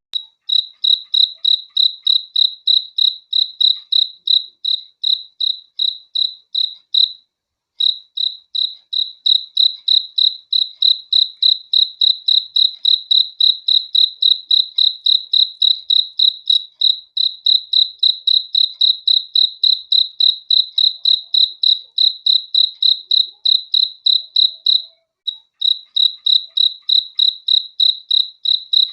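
Cricket chirping in an even, high-pitched rhythm of about three to four chirps a second, pausing briefly twice.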